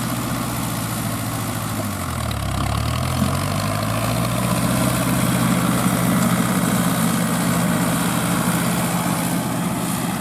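Fiat 640 tractor's diesel engine running steadily while working a straw roll baler. About two seconds in its pitch dips briefly and climbs back, and it runs a little louder afterwards, as load on the engine changes.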